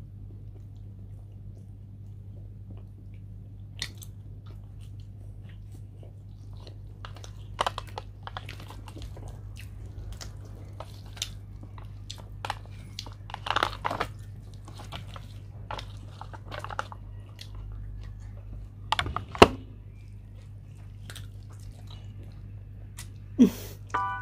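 Close-up eating of roast chicken: irregular chewing, biting and crunching sounds that start a few seconds in and are thickest through the middle, over a steady low hum.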